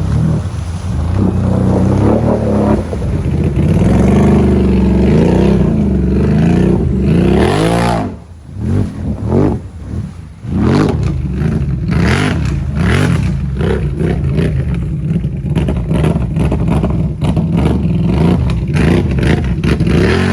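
Can-Am Renegade XMR 1000 ATV's Rotax V-twin, breathing through an aftermarket Empire exhaust, revving and running hard with the revs rising and falling. About eight seconds in the throttle drops off and is blipped a few times, then it pulls steadily again.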